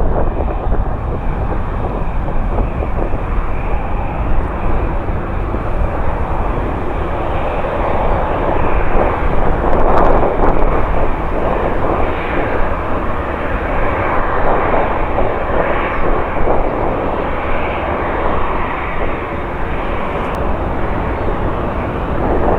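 Jet airliner engines roaring on the runway, a loud steady rush of noise with a deep rumble underneath. It swells to its loudest about halfway through, then eases a little.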